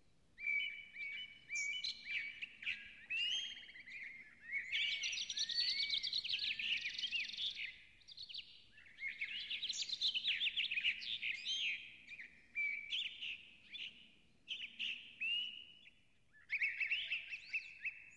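Birds chirping and singing: bursts of quick, sweeping, high calls and trills, with short breaks between them.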